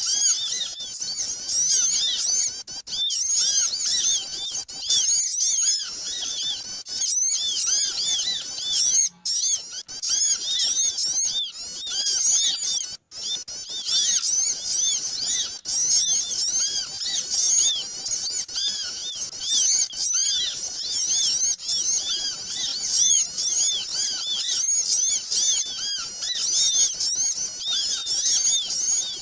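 Dense, unbroken chattering of many small birds, countless short chirps overlapping. This is a noisy lure call used to draw small birds in.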